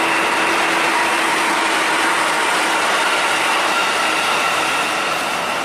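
A KRL electric commuter train running past close by: a steady rush of wheels on rails with a few faint whining tones over it, easing slightly near the end.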